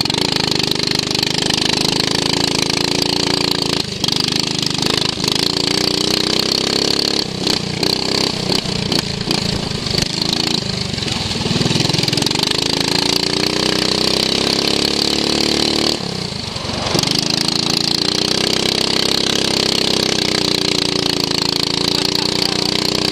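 Racing lawn mower engine heard onboard, its pitch rising and falling repeatedly as the throttle is opened and eased through corners, with a brief drop about four seconds in and a longer one near sixteen seconds. Some irregular knocks and rattles come through in the middle.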